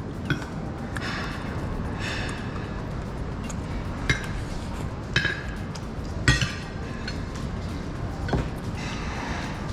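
Metal cutlery clinking against a plate during a meal: five or so sharp, separate clinks spread over several seconds, over a steady background noise.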